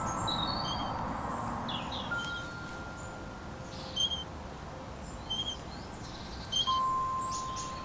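Park ambience: a small bird chirps short, high notes about once a second over a steady outdoor noise bed, with a few long, steady held tones and brief rustling swishes.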